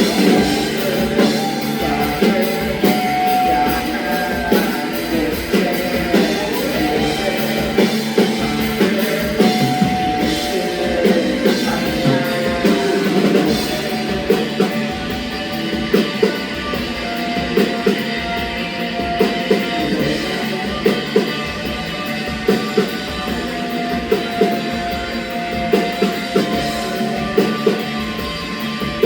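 Rock band playing: drum kit with a steady beat under electric guitar.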